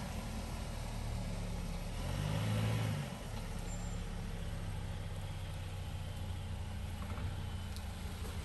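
Car engine running with a low, steady hum, swelling and bending up and back down in pitch about two to three seconds in, as a car drives off.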